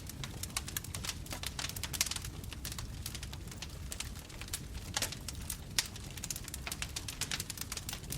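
Wood fire burning with a low steady rumble of flames and irregular sharp crackles and pops, several a second, the louder pops about two and five seconds in.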